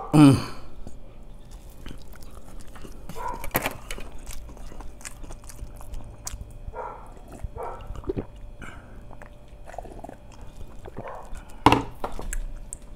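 Close-up chewing and wet mouth sounds of a man eating a sushi roll, with a short throaty vocal sound right at the start. There are sips and swallows from a bowl of miso soup around the middle, and a sharp click near the end.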